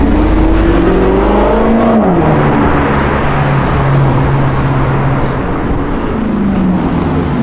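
Car engine accelerating: its pitch climbs for about two seconds, drops sharply at a gear change, holds steady for a few seconds, then climbs again near the end, over a background of street traffic.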